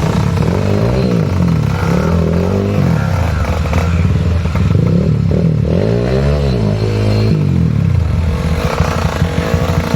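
Trail motorcycle engine revving up and down repeatedly under throttle, its pitch rising and falling every second or two, settling into a lower, choppier note near the end.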